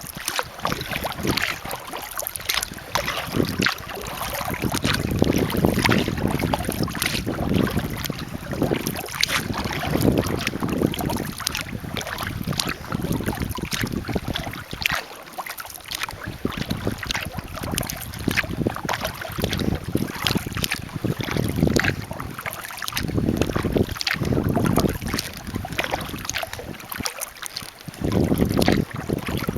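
Kayak paddling: the paddle dipping and splashing with water dripping in many small ticks, while gusts of wind rumble on the microphone off and on.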